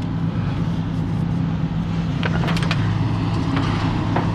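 A vehicle engine running steadily, with a few short metallic clinks about halfway through.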